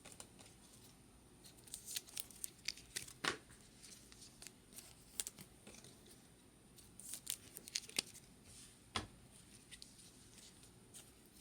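Trading cards being slid into soft plastic sleeves and handled: faint scattered rustles, scrapes and small clicks, coming in short clusters.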